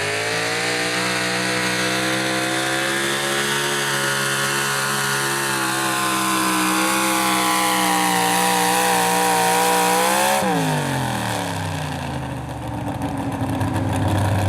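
Super stock two-wheel-drive pulling truck's engine running at high revs under load, its pitch holding and slowly climbing for about ten seconds. Then the throttle is cut and the revs fall steeply, settling to a lower rumble.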